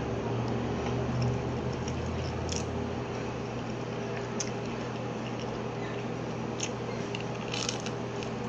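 Close-miked chewing and mouth sounds of someone eating a baked chicken nugget by hand, with a few faint clicks, over a steady low hum.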